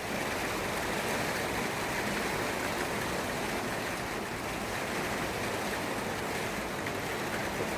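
Steady rain falling during a thunderstorm, an even hiss with no thunderclaps.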